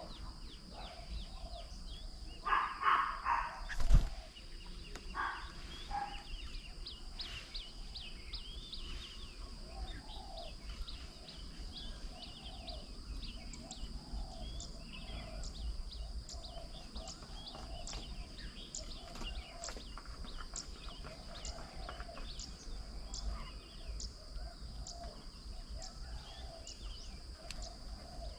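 Garden birds calling around a bird table: a long run of short, high, falling chirps and a lower call repeated over and over, over a steady high-pitched whine. A few louder calls come in bursts near the start, and a single sharp knock about four seconds in.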